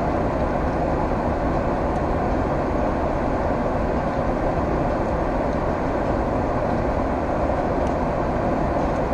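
Steady cabin noise inside a Boeing 767-300ER: the even rumble of the jet engines and airflow heard from the seat, with no change in level.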